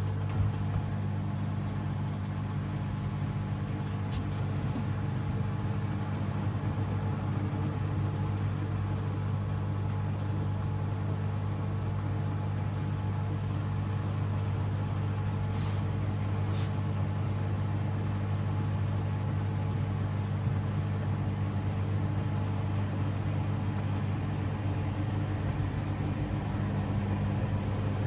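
Hoover DXOA610AHFN-80 front-loading washing machine running a 60 °C mixed wash: a steady low hum with a few faint ticks.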